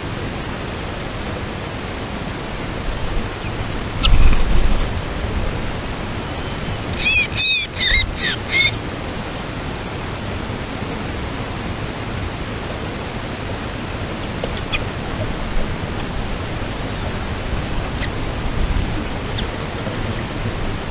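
A bird gives a short run of about five loud, harsh calls about seven seconds in, over a steady hiss of outdoor noise; a low thump comes about four seconds in.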